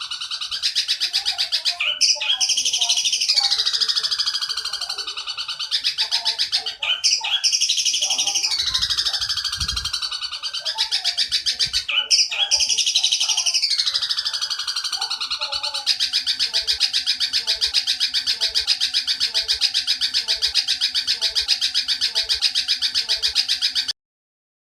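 Eurasian tree sparrow (burung gereja) giving a fast, chattering 'petir' call: rapid buzzy pulses with a falling sweep every four or five seconds, then a steady run of pulses. It cuts off abruptly near the end, where the recording's pause begins.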